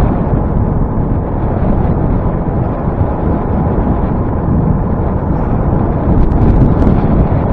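Wind rushing over the microphone of a camera on a moving bicycle: a loud, steady, rumbling roar.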